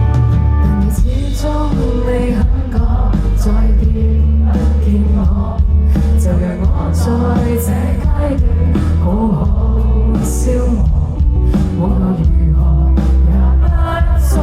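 A live pop band playing, with a voice singing over a heavy, steady bass.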